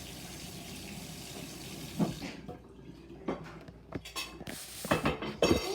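Tap water running steadily into a sink, shut off about two seconds in, followed by light clinks and knocks.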